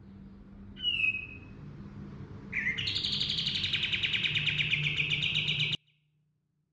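Kapas tembak (katem) songbird singing: one short falling whistle, then a long, fast rolling trill that stops abruptly.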